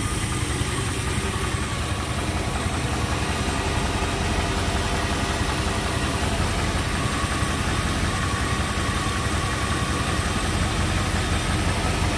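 1956 Chevy Nomad's engine idling steadily.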